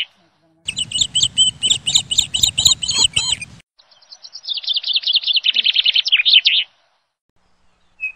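Small birds chirping and twittering rapidly in two stretches, each starting and stopping abruptly, with a short silent gap between them.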